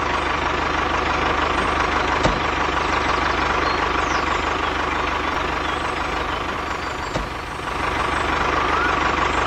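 Small motor of a miniature model truck running steadily, with a low drone and a constant whine, briefly easing off about seven seconds in.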